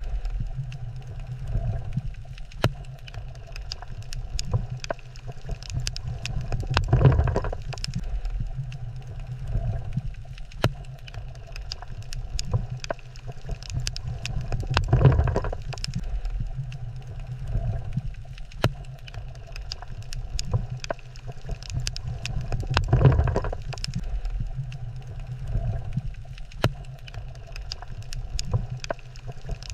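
Underwater coral-reef ambience: a steady low rumble with scattered sharp clicks throughout, swelling into a louder surge about every eight seconds.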